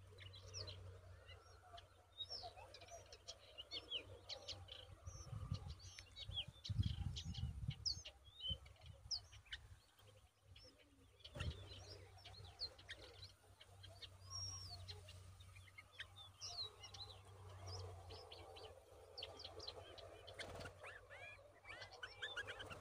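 Small birds chirping: many short, high chirps in quick succession, over a faint low rumble that grows louder around six to eight seconds in.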